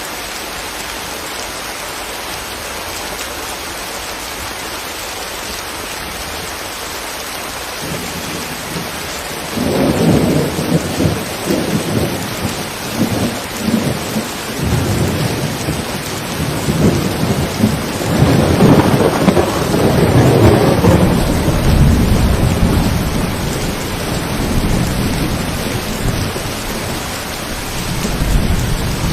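Steady rain falling. About a third of the way in, rolling thunder joins it and rumbles on in swells, loudest around two-thirds through.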